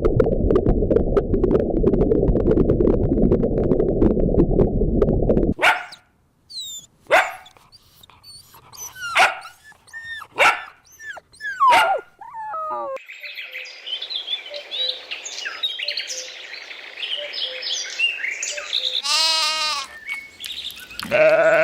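A loud, steady low rumbling noise for about five and a half seconds. Then comes a string of short, separate yelps and barks from a dog, each falling in pitch. After that there is a stretch of chirping, and two pitched animal calls near the end.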